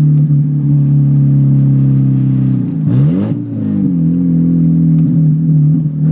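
Mazda 323 engine running with no mufflers, a loud steady exhaust note with a metallic rattle over it, which the occupants put down to the catalytic converter. About three seconds in the engine pitch drops and shifts, a gear change, then it settles back to a steady note.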